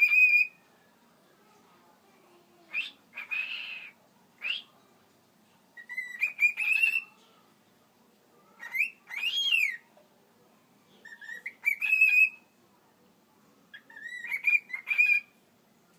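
Pet cockatiel singing: a series of short whistled phrases with rising and falling pitch glides, one roughly every three seconds, with a brief harsher chirp among them.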